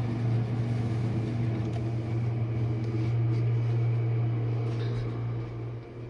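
A kitchen appliance's motor humming steadily at a low pitch, then dying away near the end.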